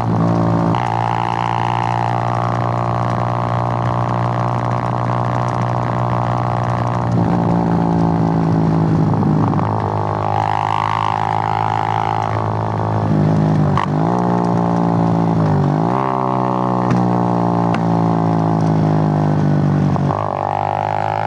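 Suzuki GN125's air-cooled single-cylinder four-stroke engine running under way, a steady drone whose pitch drops and climbs back several times, about once a few seconds in and again several times later.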